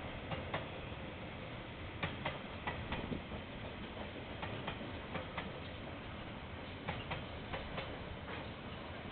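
A slow-moving train's wheels clicking over rail joints, the clicks often coming in close pairs, over a steady low rumble.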